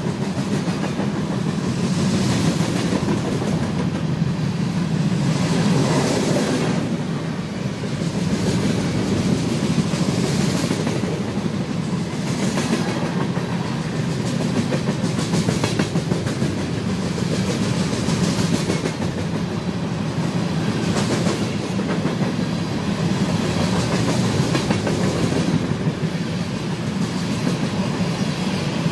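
BNSF freight train cars rolling steadily past on the main line, with a clack every couple of seconds as wheels cross rail joints.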